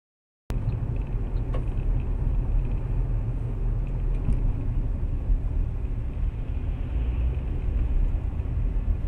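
Steady low rumble of a car driving, engine and road noise picked up by a dashcam, cutting in suddenly about half a second in, with a few faint ticks.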